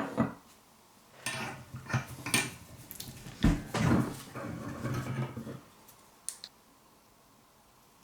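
Metal hand tools and a steel chisel clinking and scraping against each other and a hard work surface: a sharp knock at the start, a run of clinks and scrapes in the middle few seconds, then one light tick.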